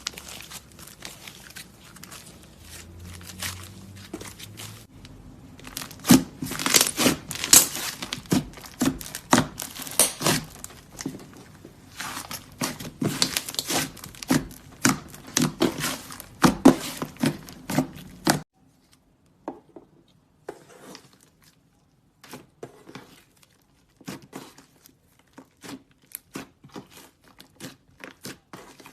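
Clay slime squished and pressed by hand, a dense run of crackling clicks and small pops. About two-thirds of the way through, the background hiss cuts out suddenly and the clicks become sparser.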